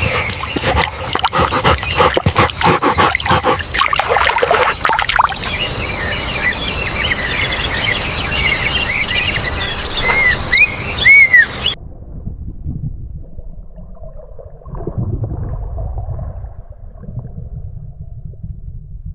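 Outdoor ambience with birds chirping, opening with a rapid run of sharp clicks or knocks in the first few seconds. About twelve seconds in, the sound cuts off abruptly to a muffled low rumble.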